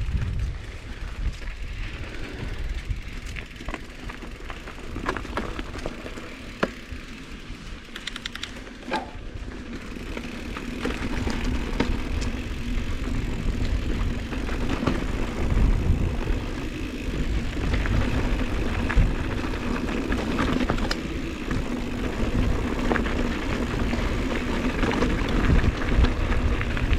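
Giant Trance 2 mountain bike ridden along a dirt trail: wind rumbling on the microphone, tyre noise on the track and small clicks and rattles from the bike, getting louder from about ten seconds in.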